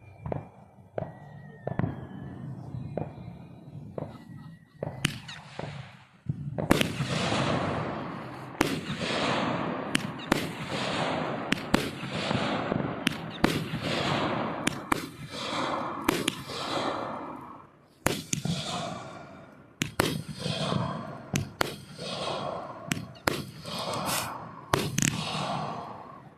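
Fireworks going off: scattered bangs and pops for the first few seconds, then from about six seconds in a dense, continuous barrage of crackling with many sharp bangs.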